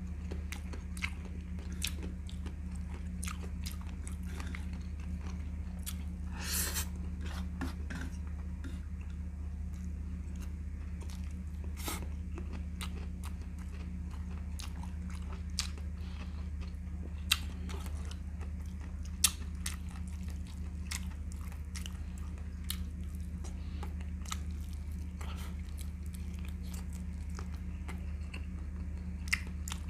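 Close-up chewing and mouth sounds of someone eating chicken legs with bare hands: wet chewing with many scattered small clicks and smacks, and two sharper clicks a little past halfway. A steady low hum runs underneath.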